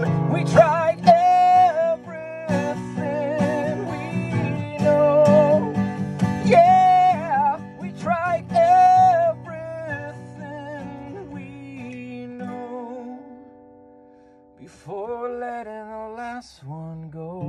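Acoustic guitar played under a man's singing, the voice bending and sliding between notes. The music thins out, almost stops about fourteen seconds in, and the guitar comes back in near the end.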